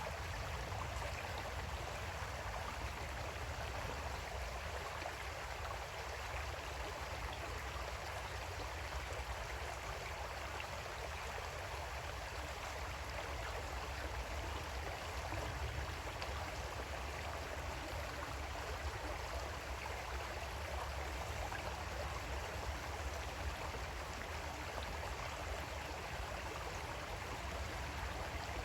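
Creek water flowing steadily over rocks, an even rush with a low rumble beneath.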